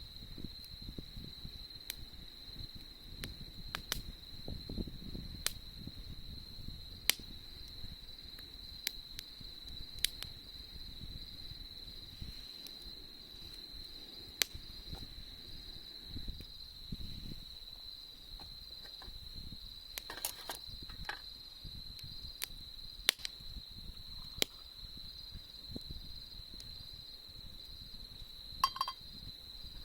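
Crickets trilling steadily, with a campfire's wood crackling and popping in sharp, scattered snaps over a low fluttering rumble from the flames.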